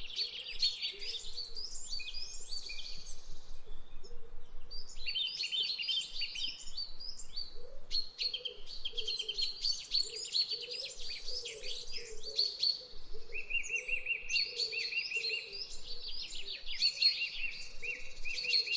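Several small birds singing and chirping together in a dense morning chorus of quick, high, repeated notes, with brief lulls, over a fainter lower-pitched calling.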